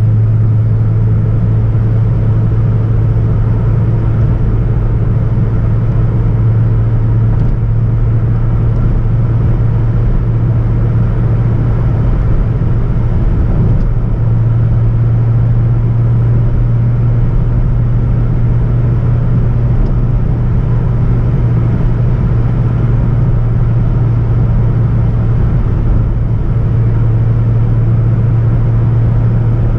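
Hyundai Tiburon's 2.0-litre petrol four-cylinder engine and exhaust giving a steady low drone as the car drives at an even speed, with road noise beneath.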